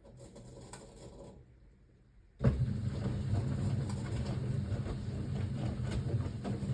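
1978 Siemens WA4600 washing machine starting up suddenly about two and a half seconds in, then running steadily with a low hum and many small clicks.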